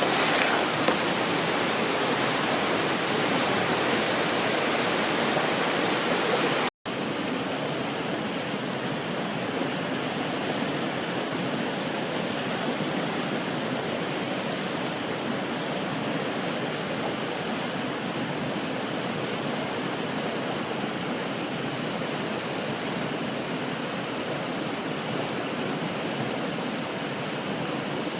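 Steady rushing of a river, an even hiss of flowing water. It briefly drops out about seven seconds in, then continues slightly quieter.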